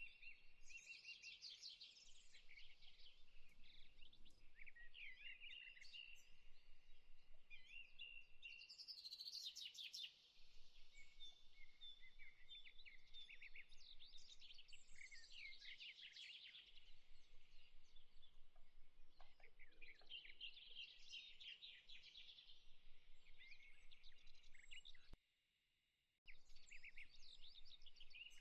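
Faint birdsong: many small birds chirping and trilling continuously at high pitch. It cuts out completely for about a second near the end.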